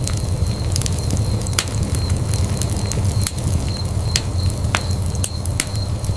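Wood fire in a fireplace crackling, with frequent sharp irregular pops over a low steady rumble of the flames.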